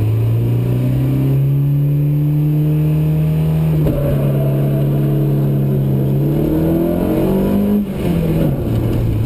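Rally car engine heard from inside the cabin, accelerating hard with its pitch climbing. The pitch falls at an upshift about four seconds in, climbs again, and falls at a second upshift about eight seconds in.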